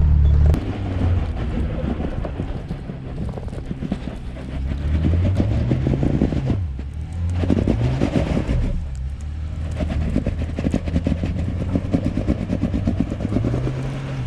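Off-road Jeep's engine pulling under load on a slippery, snow-covered rock trail, revving up and easing off several times over a dense crackle.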